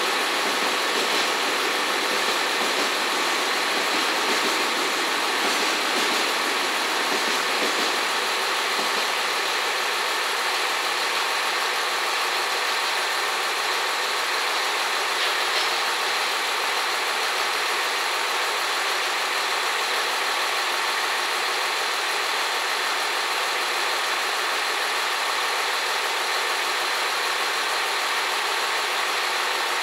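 KiYa 141 diesel inspection railcar idling steadily at close range, while a container freight train's wagons roll past on a nearby track and the rumble of the wagons eases as the train's tail clears.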